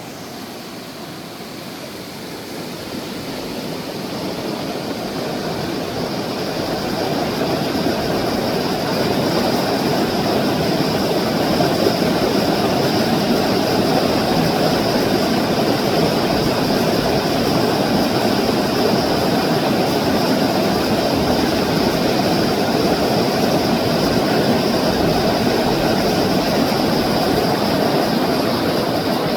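Mountain stream water rushing, a steady rush that grows louder over the first several seconds and then holds.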